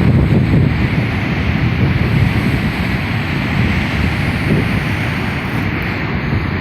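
Sea waves washing onto the shore in a steady surging hiss, with wind buffeting the microphone and adding a heavy low rumble.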